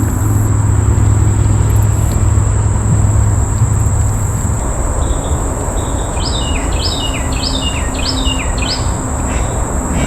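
A songbird sings a run of about five quick notes, each sliding down in pitch, in the second half. Under it are a steady high insect drone and a low rumble.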